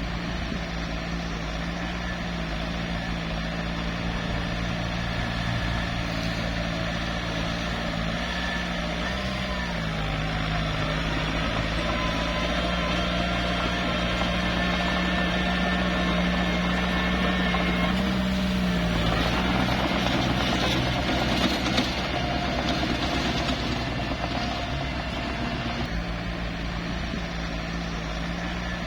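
Small bulldozer's diesel engine running steadily while working, its pitch shifting briefly about nine seconds in and again around eighteen seconds, followed by a rougher, noisier stretch lasting several seconds.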